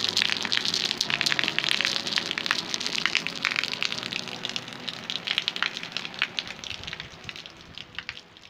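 Rain falling: a dense patter of many small drop impacts. It fades away over the last two seconds or so.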